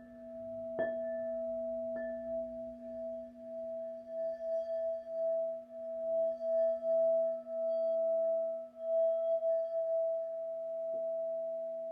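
Crystal singing bowls ringing. A couple of soft strikes in the first two seconds, then a sustained tone that swells and pulses in waves over a lower bowl's steady hum, which fades out near the end.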